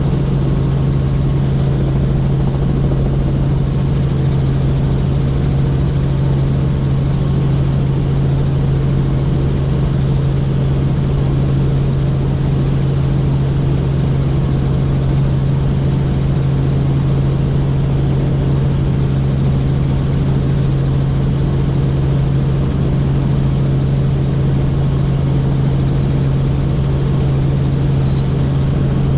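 Helicopter in flight, heard from aboard: a loud, steady drone with a strong low hum that holds one pitch.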